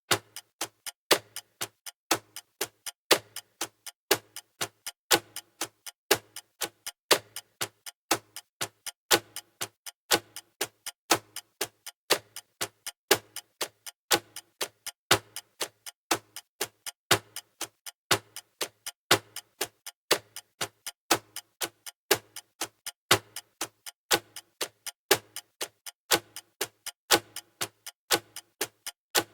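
Clock-style ticking of a countdown timer's sound effect: sharp, evenly spaced clicks, about three a second, with a louder tick every two seconds or so.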